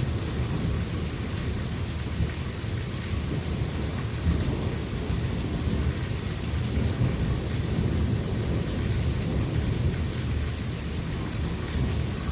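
Steady rain during a thunderstorm, with a continuous low rumble of thunder underneath.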